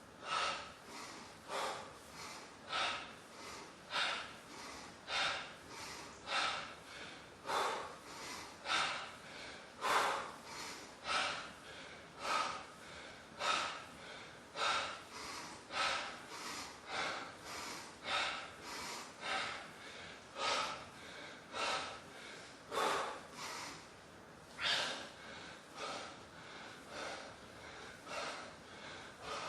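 A man breathing hard in rhythm while doing squats at full effort: a sharp, noisy breath about once a second, in time with the reps.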